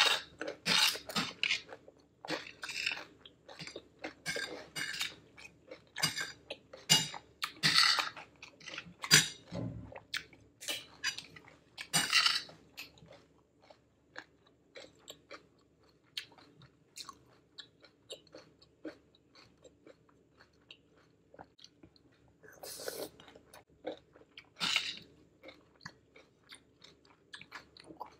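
Close-miked chewing of a crunchy raw cucumber salad, wet crisp crunches as the vegetables are bitten and chewed. The crunching is dense for the first dozen seconds, pauses for several seconds, then picks up again with a few bites near the end.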